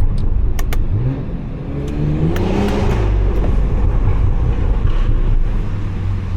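Stage 2 tuned BMW 540i's turbocharged B58 inline-six accelerating, its revs rising for about two seconds, then settling into a steady drone. Two sharp clicks come just before the pull.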